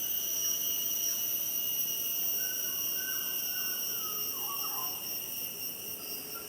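Steady, high-pitched insect chorus, crickets or similar, with faint bird calls now and then.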